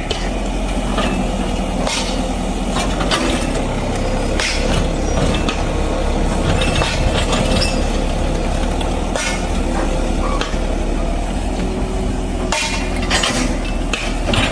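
Heavy diesel machinery running steadily, with irregular metallic knocks and clanks scattered over the engine hum; the loudest clatters come about four and a half seconds in and again near the end.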